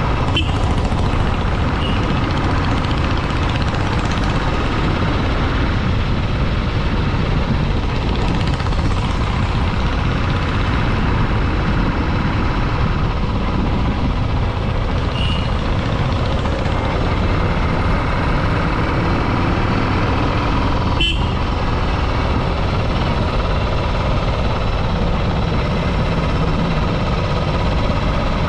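Motorcycle running steadily under way, a constant engine and road rumble, with one sharp click about 21 seconds in.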